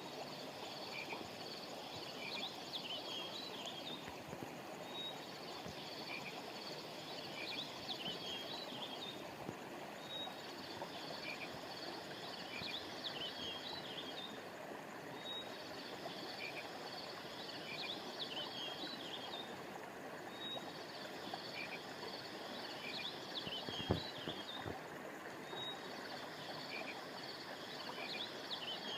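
Steady rush of flowing river water with high chirping calls over it that come in matching rounds about every five seconds, each opening with a short single note. A brief knock about 24 seconds in.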